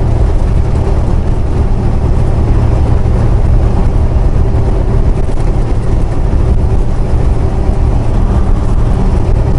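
Semi-truck cruising on the highway, heard from inside the cab: a steady low diesel engine drone with road noise.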